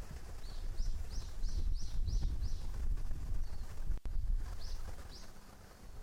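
A small bird singing a quick run of short high notes, about three a second, then two more notes near the end, over a steady low rumble.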